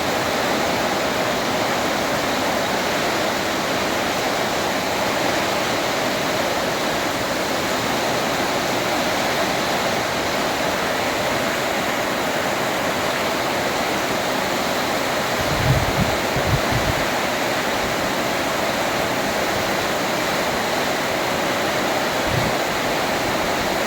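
Heavy storm rain pouring down in a steady hiss, with a few short low thumps about two-thirds of the way through and one more near the end.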